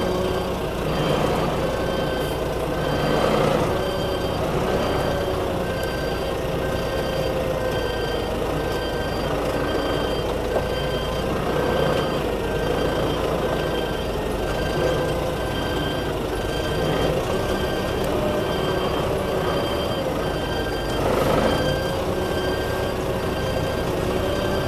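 Concrete mixer truck's reversing alarm beeping at an even pace over its diesel engine running, as the truck backs up.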